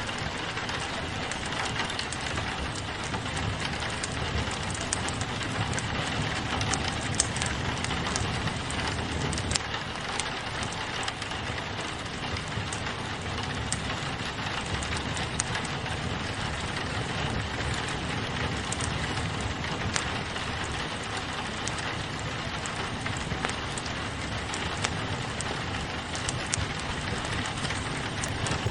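Steady rain pattering on a window, mixed with a crackling wood fire that gives frequent small pops and snaps.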